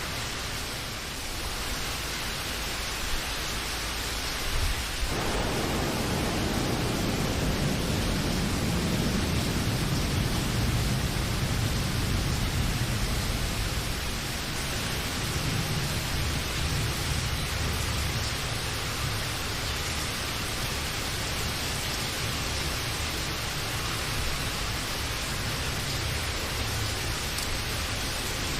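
Steady rain, with a low roll of thunder that starts suddenly about five seconds in and slowly dies away over the next ten seconds or so.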